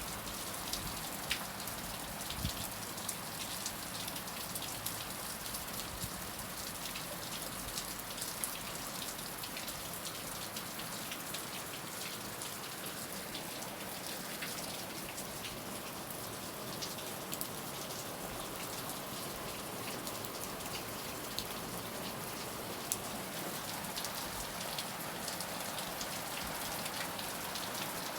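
Heavy rain falling steadily, a dense hiss with many sharp individual drop ticks on a hard surface.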